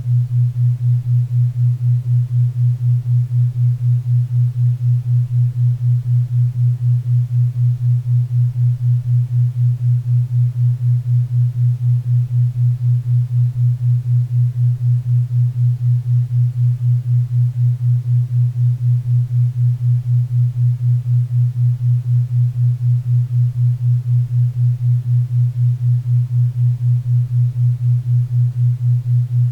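A steady low hum-like tone pulsing evenly at 4 Hz, a theta-wave beat, over a faint bed of pink and brown noise.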